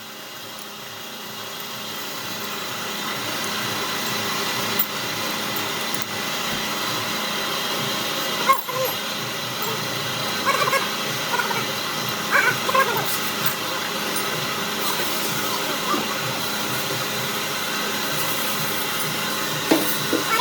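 A steady machine hum and hiss that builds up over the first few seconds, with scattered clinks and knocks of metal parts being handled.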